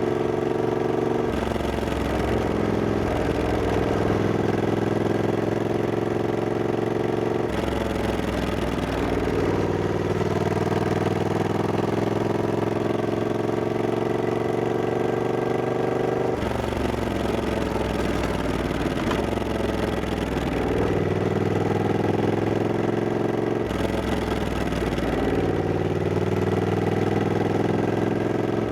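Triumph Scrambler 1200X's parallel-twin engine under way, its pitch climbing slowly as the bike pulls. Several times the pitch breaks off and starts again lower, at gear changes or on easing off the throttle.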